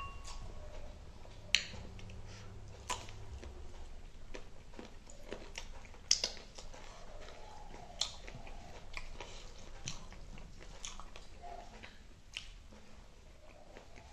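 Close-miked eating: chewing and wet mouth smacks as spicy chicken wings and rice are eaten by hand, with a scatter of sharp clicks, the loudest about a second and a half in and about six seconds in.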